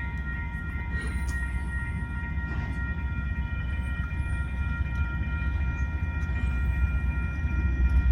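Freight train with two diesel locomotives approaching and passing, a steady low rumble that grows louder near the end. Several steady high tones run over it.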